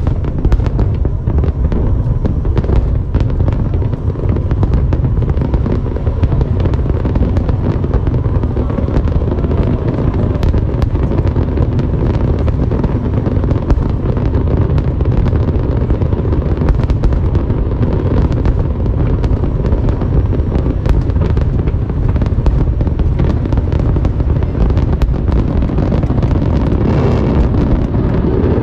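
Fireworks display going off without a break: a dense run of bangs and crackling over a heavy low rumble.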